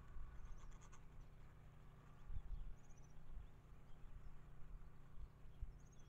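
Faint outdoor ambience with a low, uneven rumble, and three short, high bird chirps about a second in, near the middle and near the end.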